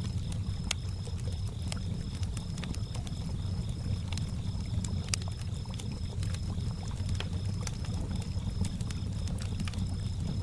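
Campfire crackling with scattered sharp pops, over a steady low wash of lake water lapping. Crickets chirp throughout as a continuous high pulsing trill.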